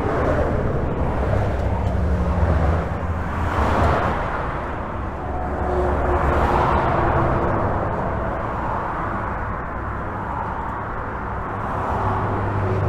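Continuous highway traffic heard from under a bridge: a steady low rumble of tyres and engines, with vehicles swelling louder as they pass every few seconds.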